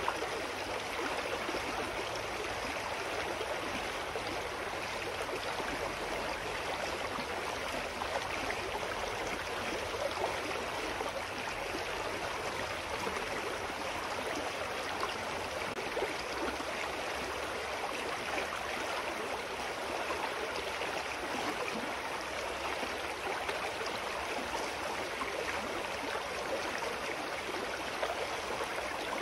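Clear mountain stream flowing and babbling over rocks: a steady rush of water with small splashes and gurgles.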